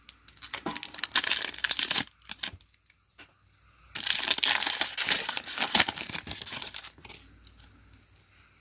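Foil trading-card pack wrappers being torn open and crinkled, in two spells: one of about a second and a half, then one of about three seconds.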